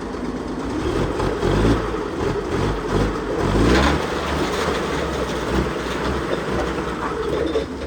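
Engine running steadily, with its pitch rising and falling between about one and four seconds in, as if revved.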